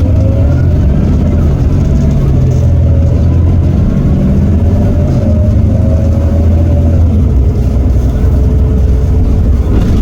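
Heuliez GX327 city bus's Iveco Cursor 8 six-cylinder diesel pulling hard under kickdown through its ZF Ecomat automatic gearbox: a heavy, loud engine rumble with a whine that rises and falls. The whine drops in pitch about seven seconds in.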